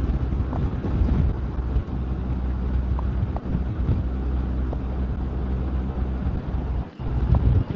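Motorcycle engine running at a steady cruise with wind rushing over the microphone while riding, with a short drop in level near the end.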